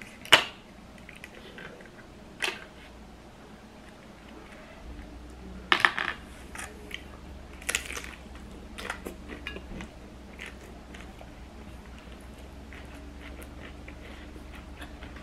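Close-up crunching of a crisp fried tortilla chip being bitten and chewed: a few loud sharp crunches, the loudest about a third of a second in and around six seconds, between quieter chewing.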